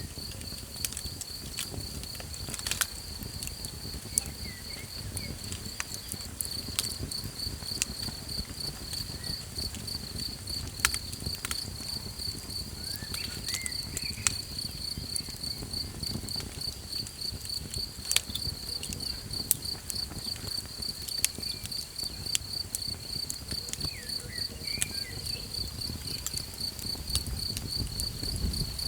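A cricket chirps in a high, steady pulsing trill over a small campfire, which crackles with scattered sharp pops above a low, soft rumble.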